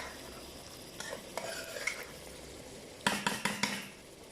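A spoon stirring chicken and yogurt in a karahi over the heat, scraping against the pan, with a quick run of loud strokes about three seconds in, over a low sizzle.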